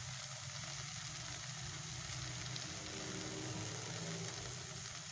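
Egg, okra and tomato mixture sizzling gently in a stainless steel pan, left to cook undisturbed. A steady low hum runs beneath the sizzle.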